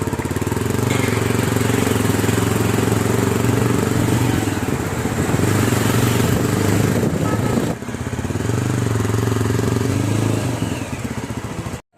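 Motorcycle engine running steadily while riding, with wind and road noise rushing over the microphone. The engine note drops off briefly about two-thirds of the way through, then picks up again.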